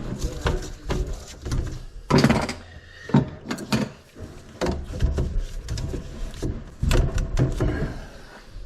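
Irregular knocks, clunks and scraping from hands-on work on a drain line, with sharp hits coming in quick clusters.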